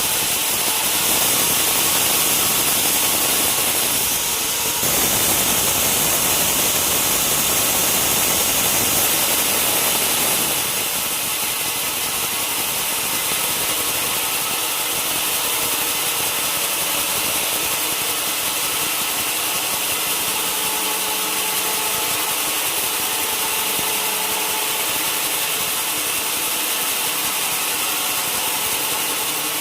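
Sawmill band saw running and cutting through a log, a steady loud noise that eases a little after about ten seconds.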